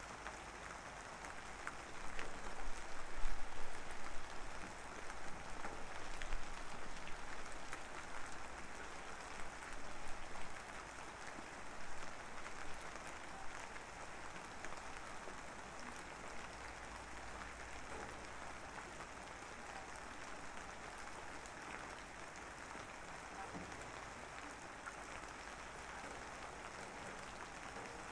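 Steady rain-like patter, a dense even hiss that is louder and more crackly for roughly the first ten seconds, then settles to a quieter steady wash.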